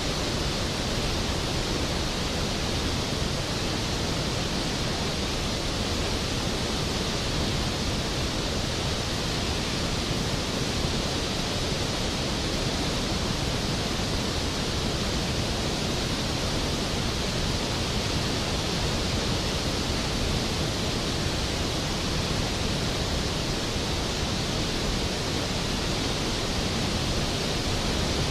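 Skógafoss, a large waterfall, crashing down in a steady, even roar of falling water with no breaks or changes.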